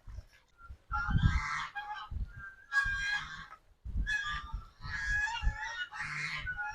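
Farm fowl calling: a run of about five calls, each lasting under a second.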